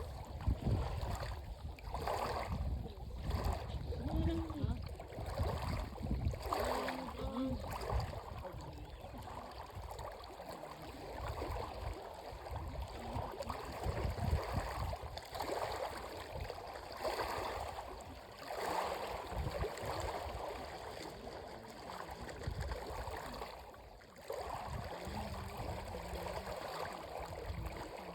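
Dead Sea water lapping and splashing in uneven swells, with wind rumbling on the microphone and faint voices in the distance.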